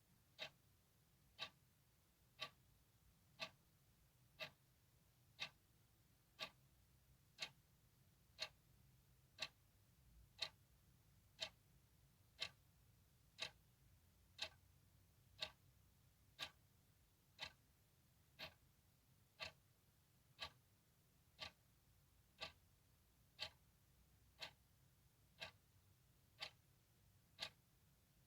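Clock ticking steadily, one short sharp tick a second, each tick alike and evenly spaced.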